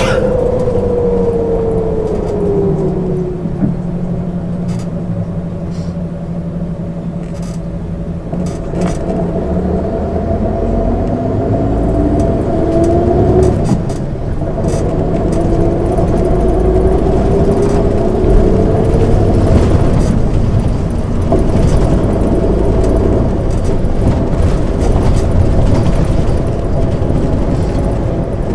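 MAN ÜL 353 bus engine slowing, then accelerating through the gears: its pitch falls over the first few seconds, holds, then climbs, breaks off and drops about halfway through at a gear change, and climbs again.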